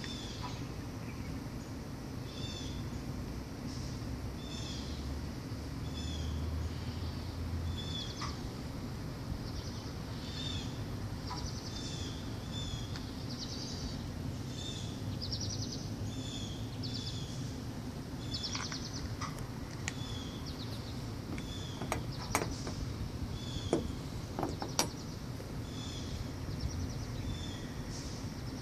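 A small bird chirping over and over in short calls and quick trills, over a steady low background rumble. A few sharp light clicks come near the end.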